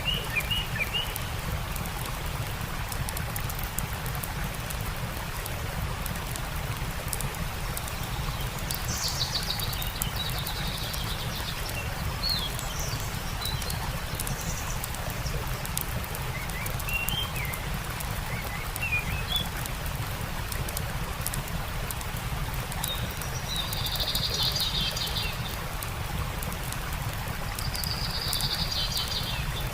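Birds chirping and trilling in several short bouts over a steady rush of stream water, with the fine crackle of a campfire.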